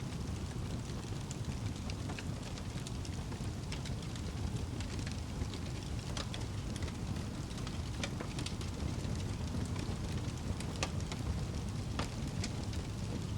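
Fire in a fireplace crackling: a steady low rumble with irregular sharp pops and snaps scattered throughout.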